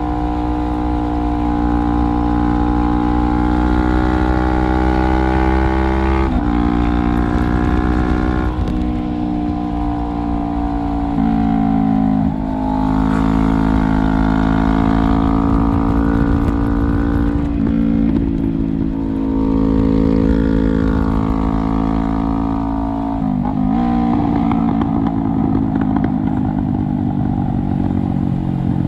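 2017 Honda CBR500R's parallel-twin engine running through a straight-piped exhaust, heard onboard while riding. The engine note holds a steady pitch and then changes abruptly several times as the revs shift.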